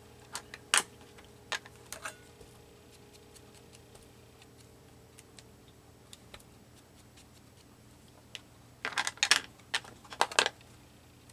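Light clicks and taps of paper sticker pieces being handled on a tabletop: a few sharp taps in the first two seconds, then a quick cluster of clicks and rustles near the end, over a faint steady hum.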